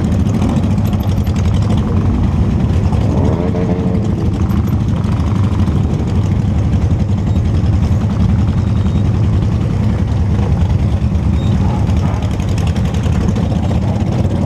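Motorcycle engine running steadily on the road, a constant low drone with an even rush of noise over it, picked up by a camera mounted on the bike.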